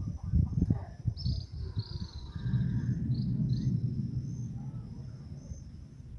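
Insects trilling steadily at a high pitch, with a bird giving a few short falling calls in the first couple of seconds. A low rumble swells in the middle and fades toward the end.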